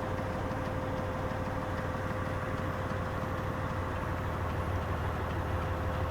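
Truck engine idling steadily, a continuous low rumble with a faint steady hum over it.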